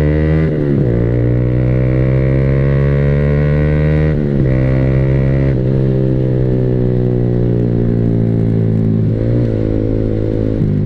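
Yamaha R15 V3's single-cylinder engine through an SC Project Purbalingga aftermarket exhaust, heard while riding: the revs climb steadily in each gear, with a sudden drop in pitch at upshifts about half a second in, around four seconds in and around nine seconds in, then easing off near the end.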